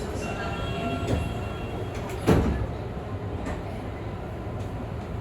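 Sliding doors of a Tobu 50000-series train closing before departure, shutting with a heavy thud about two seconds in, over the steady hum of the stopped train. A few brief steady tones sound just before.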